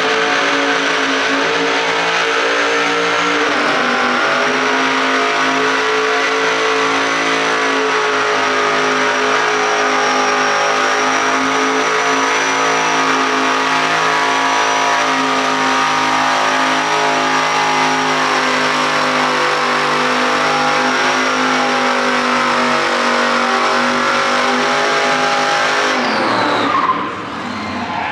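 Mini bike engines running hard and steady at high revs, holding an even pitch; near the end the sound briefly drops away and comes back.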